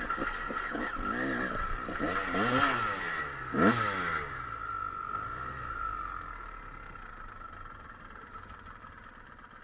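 Trail motorcycle engine revving up and down several times, sharpest about three and a half seconds in, then fading steadily away.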